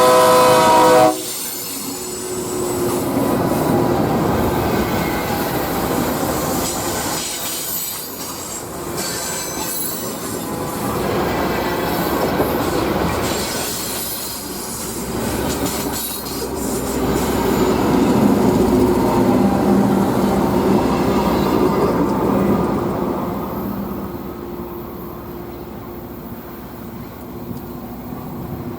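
A train horn sounding a chord that cuts off about a second in, then a train rolling past on steel rails, its rumble swelling and fading twice.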